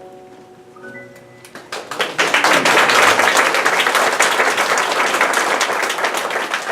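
The last held notes of the song's backing music fade out. About two seconds in, audience applause starts: many hands clapping together.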